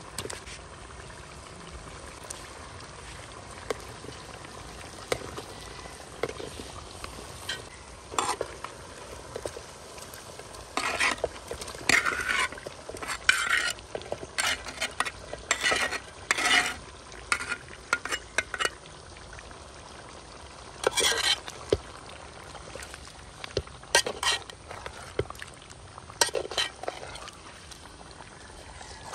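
Green masala paste and oil sizzling steadily in a metal pot. A metal spatula scrapes and stirs against the pot in irregular bursts through the middle as fried chicken pieces are mixed into the frying gravy.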